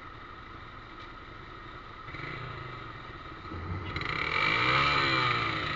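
Motorcycle engine passing close by. It grows louder from about two seconds in and is loudest just before the end.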